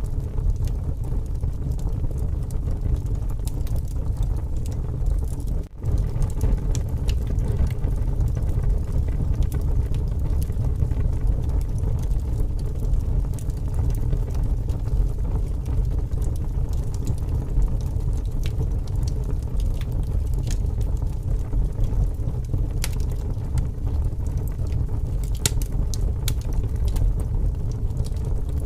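Wood fire crackling with scattered sharp pops, over a steady low rumble of strong wind. The sound drops out for a moment about six seconds in.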